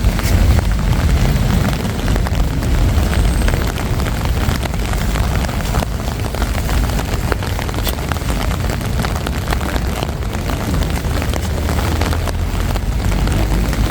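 City traffic ambience: a steady low rumble under an even noisy hiss, with scattered small clicks.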